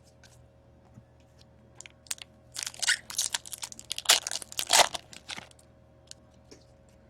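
Crinkling and tearing of a foil trading-card pack wrapper, with a cluster of loud, irregular crackles lasting about three seconds in the middle and scattered lighter rustles and clicks around it.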